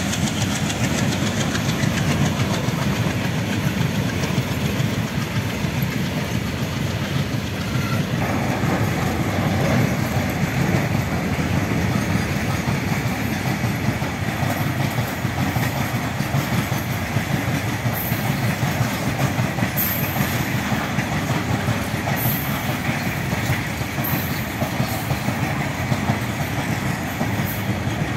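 Train of RoRo flat wagons loaded with trucks running through a station without stopping: a loud, steady rumble of wheels on rail, with a few sharp high clicks in the second half.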